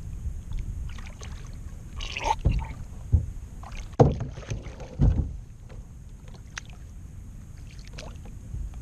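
Knocks and bumps on a kayak hull, with the loudest about two, three, four and five seconds in, over a steady low rumble.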